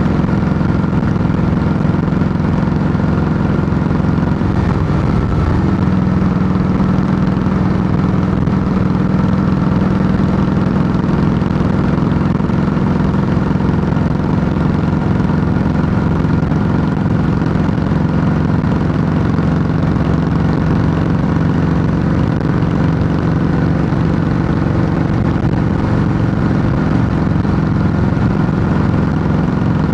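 Harley-Davidson Softail Heritage Classic's air-cooled V-twin, breathing through Samson true-dual fishtail pipes, idling loud and steady. The idle wavers briefly about five seconds in, then settles.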